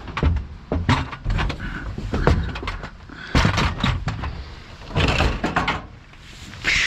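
Scrap metal appliances being moved and loaded with a hand truck: a run of sharp metal clanks and knocks, with a denser cluster of bangs about five seconds in.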